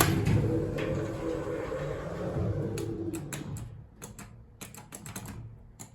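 ThyssenKrupp hydraulic elevator running: a steady hum with a few held tones that dies away about three seconds in, followed by a rapid run of sharp clicks and rattles.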